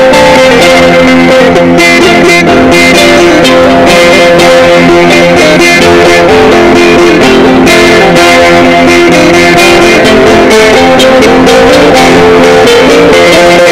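Sape, the Dayak boat-shaped lute of Borneo, being played: a steady stream of plucked notes over sustained lower tones.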